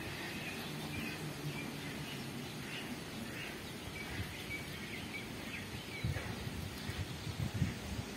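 Outdoor ambience of small birds chirping, short calls every second or so, over a steady low background rumble; a few soft low thumps come in the last two seconds.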